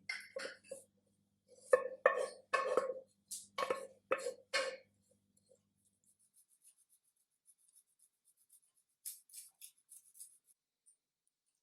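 Kitchenware knocking and clinking: about a dozen short, sharp taps with a slight ring over the first five seconds, then a few fainter, lighter clicks about nine seconds in.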